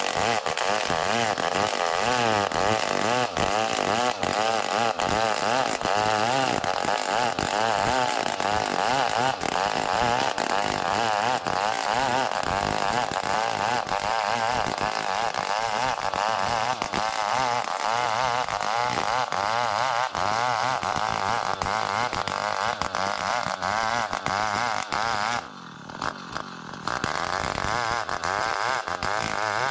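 Two-stroke chainsaw running at high revs and cutting a small ulin (Borneo ironwood) log lengthwise into a beam, its engine pitch wavering as the load changes. Near the end the sound briefly drops away for about a second, then comes back.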